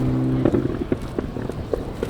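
Turbocharged four-wheel-drive rally car's engine held at steady high revs, then cut about half a second in. It is followed by a string of irregular pops and cracks from the exhaust as the driver lifts off the throttle.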